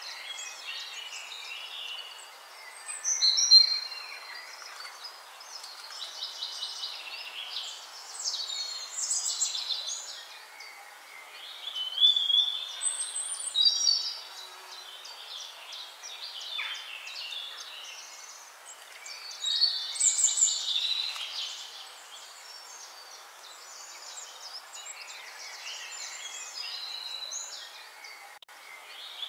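Birds singing and chirping in many overlapping short phrases and trills over a faint steady hiss, with louder bursts of song about 3 s, 12–14 s and 20 s in.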